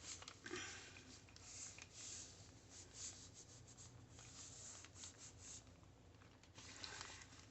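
Faint, irregular rustling and rubbing of paper being handled, in many short soft strokes.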